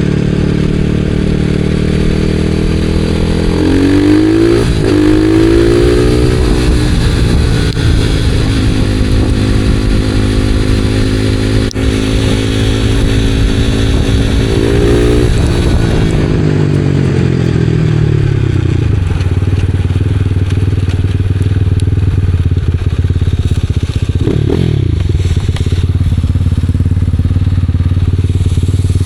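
Supermoto motorcycle engine on a ride. It speeds up a few seconds in and holds steady revs, then drops back about halfway through and runs at lower revs with a couple of short blips. There is a single sharp click near the middle.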